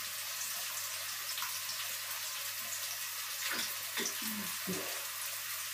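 Chopped onion and garlic frying in a little oil in a wok, a steady sizzle.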